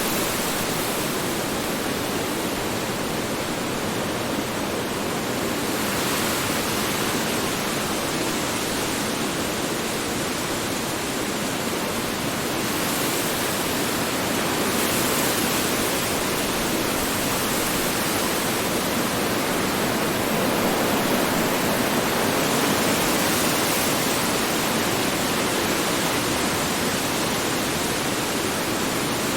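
Strong wind blowing steadily, a dense rushing hiss that swells and eases a little every few seconds.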